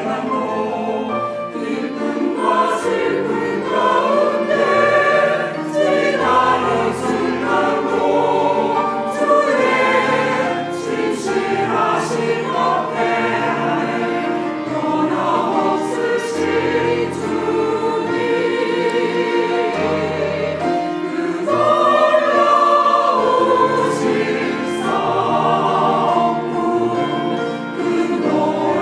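Church choir singing a sacred anthem, with held low accompanying notes underneath.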